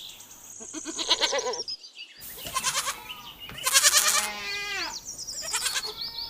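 Goats bleating, several wavering calls one after another.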